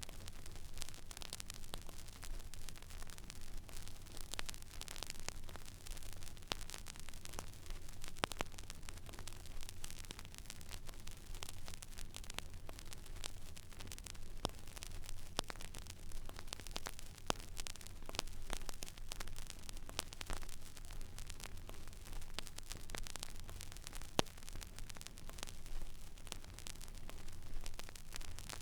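Stylus tracking an empty vinyl record groove: steady surface hiss scattered with crackles and small pops, over a low hum.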